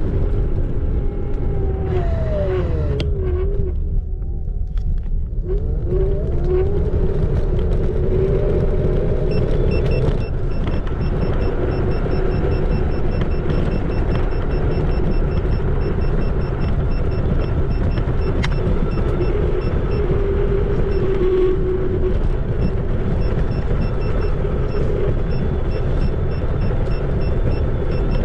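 Xiaomi Electric Scooter 4 Pro being ridden: the hub motor's whine sits over a heavy low rumble of wind and tyres on the road. The whine falls in pitch as the scooter slows in the first few seconds, dips briefly, then rises again as it speeds up and holds steady.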